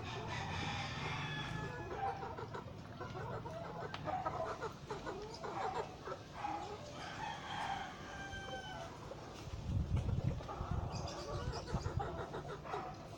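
Game fowl crowing and clucking, several birds calling over one another, with a brief low rumble about ten seconds in.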